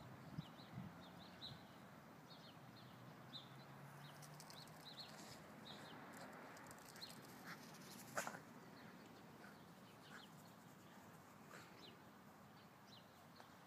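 Quiet outdoor ambience with small birds chirping faintly and repeatedly, and one sharp click about eight seconds in.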